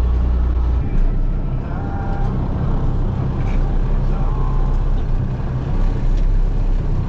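Heavy farm-machinery engine running steadily, a low drone whose note shifts about a second in, with faint voices underneath.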